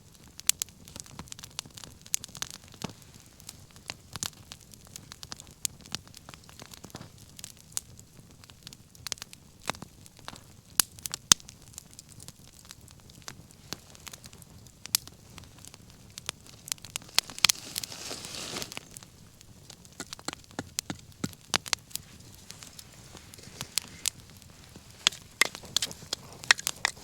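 Wood bonfire crackling and popping, with irregular sharp snaps of burning wood throughout. About two-thirds of the way through there is a brief rush of hiss.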